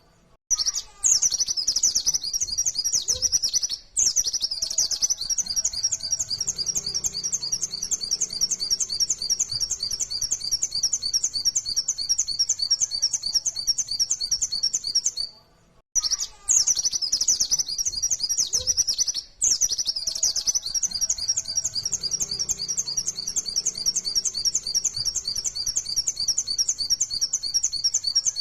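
Pleci (white-eye, Zosterops) singing a continuous, rapid, high twittering song, with brief breaks and a restart about halfway through as the recording loops.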